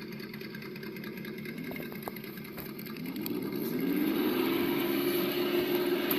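Simulated engine sound from the sound module of an Absima Yucatan 1:8 RC crawler, played through its speaker. It idles, then revs up and gets louder about halfway through, and holds the higher revs.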